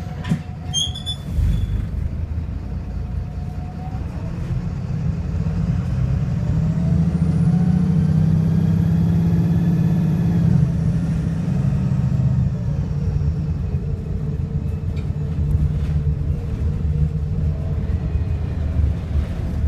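VDL SB200 bus's diesel engine and Voith automatic gearbox under way: a low, heavy drone, with engine pitch and a high gearbox whine rising then falling over several seconds in the middle. The engine is misfiring and sounds very unhealthy. There are a few short high chirps about a second in.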